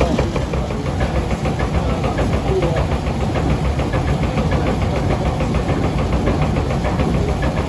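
Watermill machinery running while grinding: a steady low rumble with a rapid, regular clatter that does not let up.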